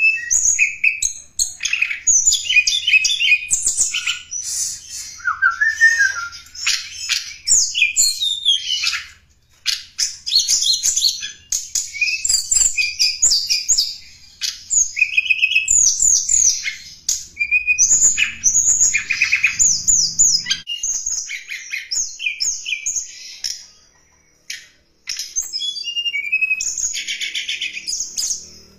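Tledekan gunung song played as a lure call: rapid high chirps, trills and whistled phrases in quick succession, broken by short pauses.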